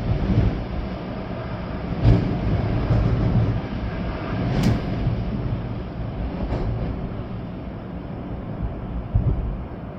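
Storm-force wind gusting through swaying trees with rain, a deep rumble that swells and eases. A few sharp taps stand out, the clearest about halfway through.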